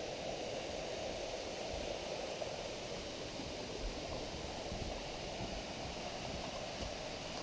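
Water of a stream rushing over its bed, a steady even rush.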